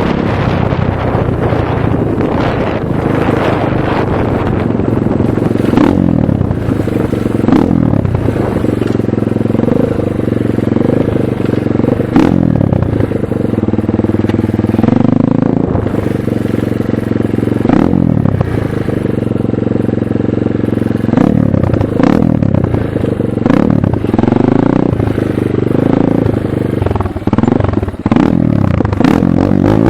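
Motocross bike engine being ridden hard, revving up and dropping back over and over as the throttle is opened and closed and the gears are shifted.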